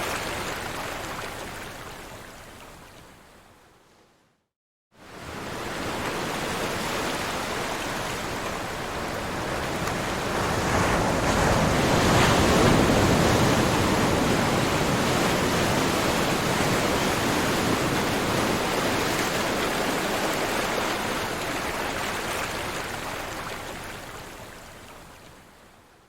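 Ocean waves washing on a shore: a wash of surf fades out to a brief silence, then a new wave swells up, is loudest about halfway through, and slowly fades away.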